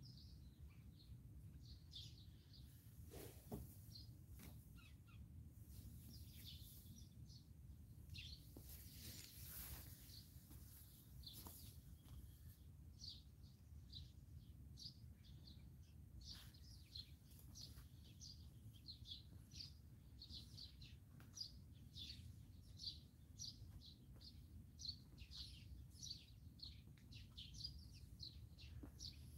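Faint songbirds chirping: many short, high chirps that grow thicker in the second half, over a low steady rumble.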